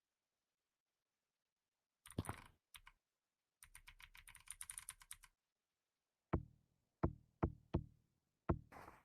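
Silence, then a fast run of small clicks, about ten a second, followed by a handful of separate sharp knocks near the end.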